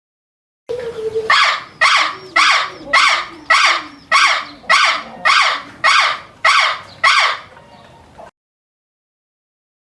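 A bird giving a loud, harsh call about eleven times in a steady series, a little under two calls a second, that stops about eight seconds in.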